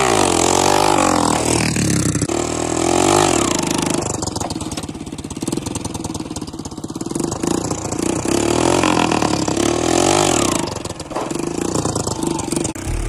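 Small motorcycle engine revving up and down several times as the bike rides close past. The pitch climbs and falls repeatedly, with a steadier, rattly stretch in the middle. Near the end it cuts off suddenly.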